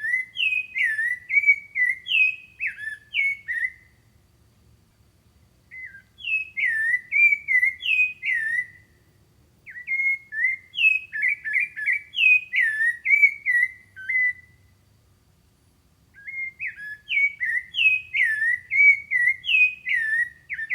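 A songbird singing its song four times. Each phrase is a run of quick whistled notes that swoop down and up, lasts a few seconds, and is followed by a short pause.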